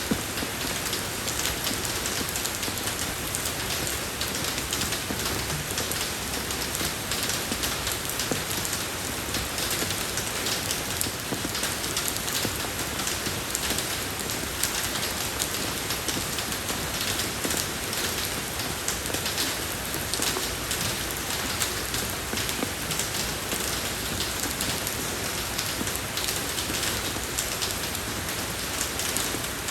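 Steady rain falling on a road surface, a dense even hiss with fine drop ticks and no pauses.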